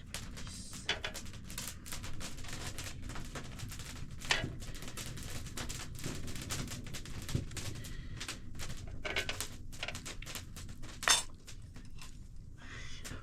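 Irregular light clicks and knocks over a low steady background noise, with two sharper knocks, about four seconds in and about eleven seconds in.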